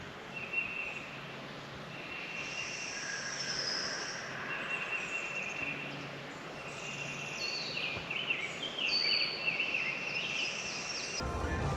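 Outdoor ambience of birds and insects: a buzzy note repeats, each about a second long, and from about seven seconds in a run of quick falling bird chirps is heard.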